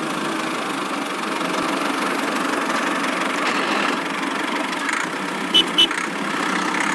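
A small engine running steadily, with two short high-pitched ticks a little before the end.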